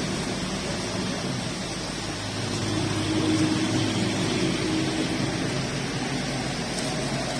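Steady rain hiss with motor vehicle engines running and passing, one engine hum swelling a little in the middle.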